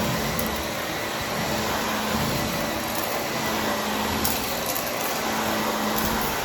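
Vacuum cleaner running steadily with its brushroll spinning: an even rushing noise over a steady low hum.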